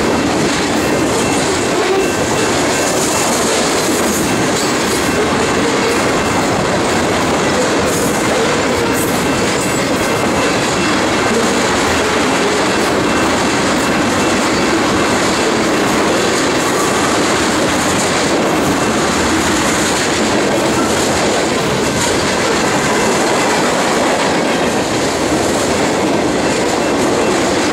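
Freight cars of a heavy manifest train, mostly tank cars with a few boxcars, rolling past at close range: a steady, loud rolling noise of steel wheels on rail with a few faint clicks. Strong wind buffets the microphone.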